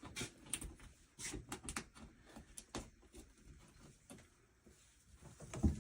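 Irregular light clicks and knocks of tools and hardware being handled, with a louder knock near the end.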